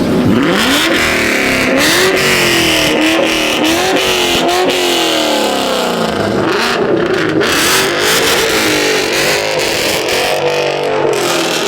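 Car engine revving hard and continuously, its pitch rising and falling over and over as the throttle is worked.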